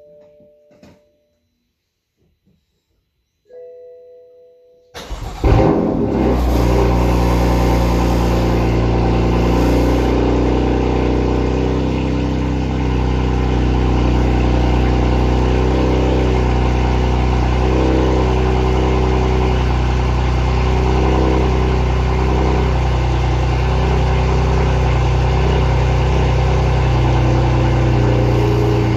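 A short chime, then about five seconds in the BMW M3 F80's twin-turbo inline-six cranks briefly and fires with a loud flare, settling into a steady high cold-start idle.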